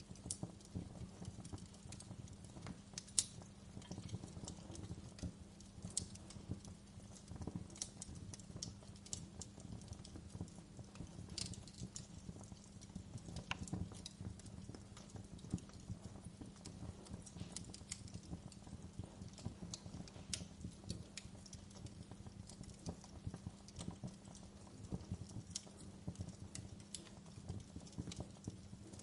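Wood fire in a fireplace crackling: irregular sharp pops and snaps of burning firewood over a steady low rumble of the flames. A single louder pop comes about three seconds in.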